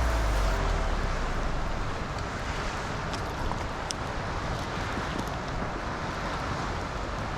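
Wind buffeting the microphone, strongest in the first second, over a steady rushing hiss, with a few faint ticks.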